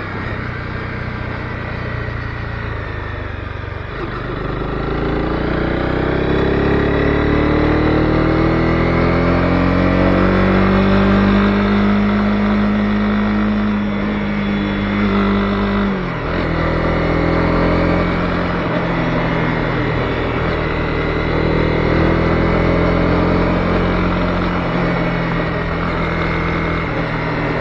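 Honda CB250R's single-cylinder engine under way on the road: the revs climb for several seconds and hold, then drop sharply about sixteen seconds in as the throttle closes or the gear changes, before it settles into a steady cruise. Wind and road noise run underneath.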